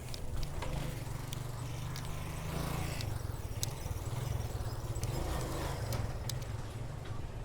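Wind buffeting and road rumble on a camera mounted on a moving bicycle, with scattered small clicks and rattles.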